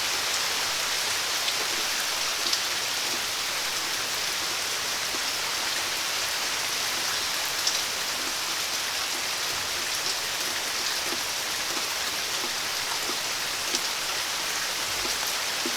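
Steady rain falling, an even hiss with scattered drips and small splashes landing close by.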